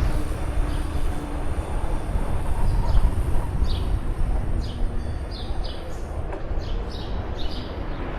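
Wind rumbling on the microphone during a bicycle ride, with a string of short high chirps starting about a third of the way in.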